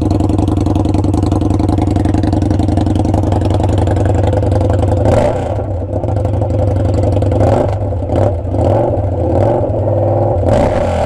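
A motorcycle V-twin idles steadily, then about five seconds in an Indian Scout Sixty's V-twin, fitted with a Hacker Mayhem 2-into-1 exhaust, fires up and runs loud with a few revs.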